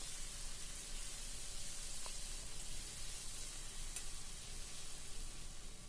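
Onions, green chillies and freshly added chopped tomato sizzling in hot oil in a kadai, a steady high hiss as they fry. The metal ladle stirring them gives a faint clink or scrape against the pan twice.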